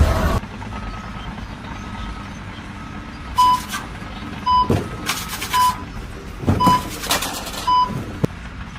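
Vehicle reversing alarm beeping about once a second, steady short beeps, over a low engine rumble, with a few sharp knocks and clatters among the beeps.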